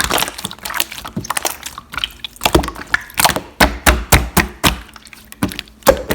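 Clear slime being squished and pressed by hand, giving a quick irregular run of wet clicks and pops.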